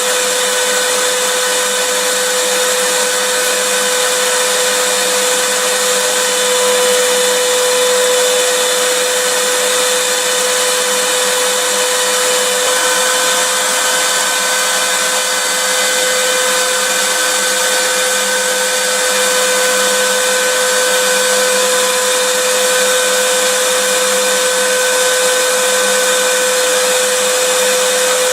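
Vacuum cleaner running steadily: an even rushing noise with a held mid-pitched whine from the motor.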